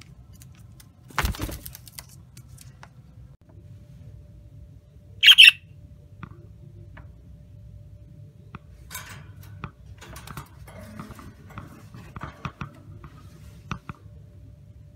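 A pet parrot giving one short, loud squawk about five seconds in. A thump comes shortly before it, and soft chirps and small clicks are scattered later on.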